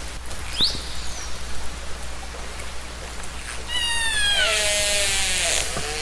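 Killer whale (orca) calls recorded underwater: a quick rising whistle about half a second in, then a longer call near the four-second mark whose stack of tones slides down in pitch, over a steady background hiss.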